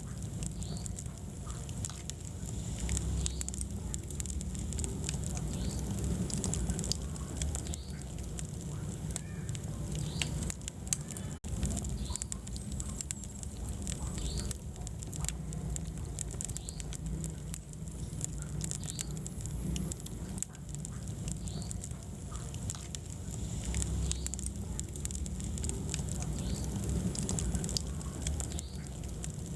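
Wood fire burning in a fireplace: a steady low rumble of flames with frequent irregular crackles and small pops from the burning logs, and one brief dropout a little over a third of the way in.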